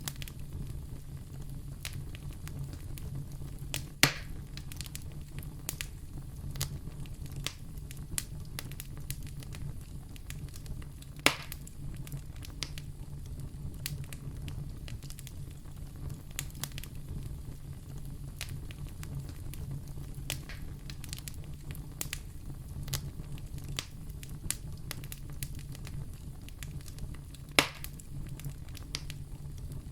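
Wood fire in a fireplace crackling, with frequent small clicks and three louder pops: about four seconds in, about eleven seconds in, and near the end. A steady low rumble runs underneath.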